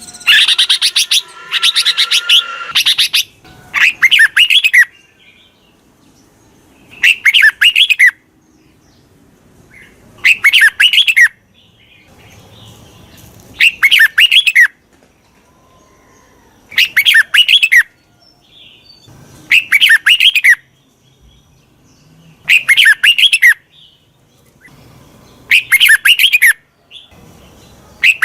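Red-whiskered bulbul singing: dense chattering warbles for the first few seconds, then a short warbled phrase repeated about every three seconds.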